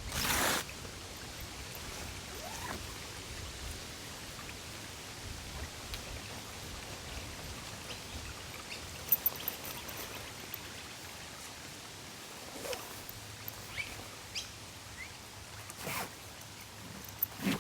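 Steady outdoor background hiss with a few faint short chirps and occasional sharp clicks and knocks; a louder rustle or knock right at the start.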